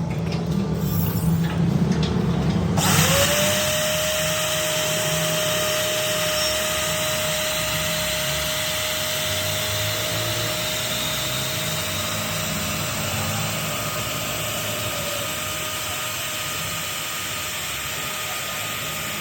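Electric drill switching on about three seconds in, its motor whine rising quickly to a steady pitch, then running steadily as it turns a rod to wind steel wire into an extension spring.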